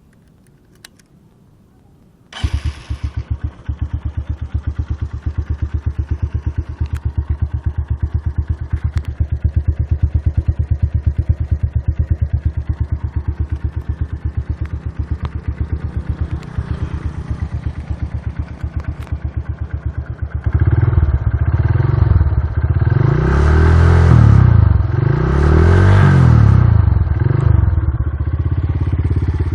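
Honda New Megapro single-cylinder four-stroke motorcycle engine, breathing through a custom muffler taken from a smaller bike, starting a couple of seconds in and idling with an even pulse. Later it is revved in a few blips that rise and fall before dropping back to idle. The exhaust note is meant to be deep and bassy rather than loud.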